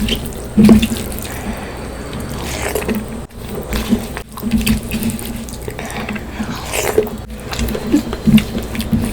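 Wet, irregular chewing and mouth sounds of someone eating fish curry with rice.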